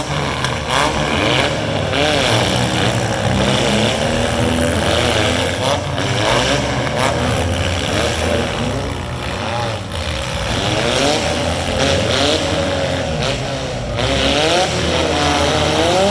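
Several small four-cylinder demolition derby cars' engines running at once, revving up and down in overlapping rising and falling pitches as the cars drive around the arena.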